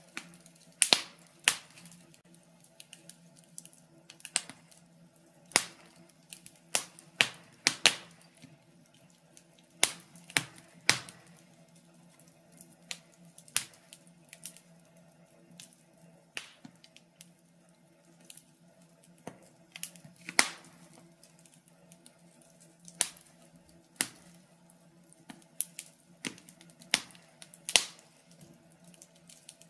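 Wood fire crackling in a fireplace: irregular sharp pops and snaps of varying loudness over a faint steady low hum.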